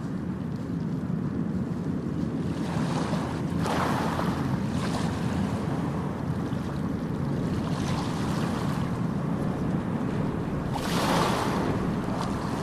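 Ocean surf breaking and washing up a beach over a steady low rumble, with a wave surging up about four seconds in and another, louder one near the end.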